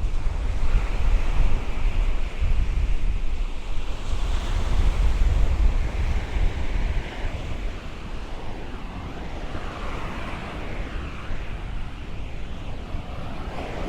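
Ocean waves washing along the shore, with wind buffeting the microphone as a heavy low rumble that eases somewhat about halfway through.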